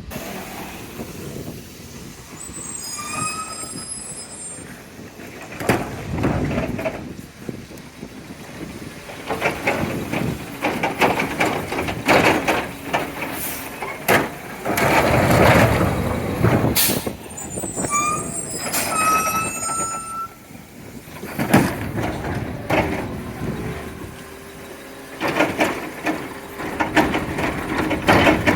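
A recycling truck at work: its engine runs with repeated sharp bangs and clatters as carts are emptied, air brakes hiss, and brief high squeals come twice.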